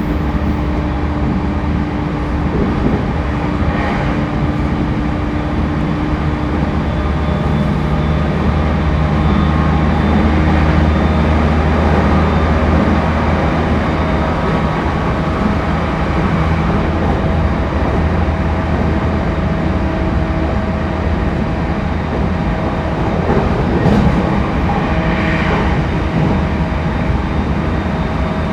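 Running noise inside a passenger car of a JR East E231 series 1000 electric commuter train at speed: continuous rumble of wheels on rail with a steady motor hum whose tones shift now and then.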